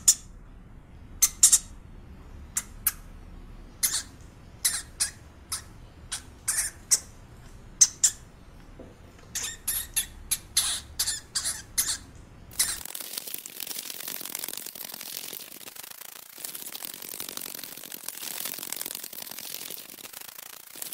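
An animal giving short, sharp, high-pitched squeaking calls at irregular intervals; about thirteen seconds in they give way to a steady high hiss with fine crackling.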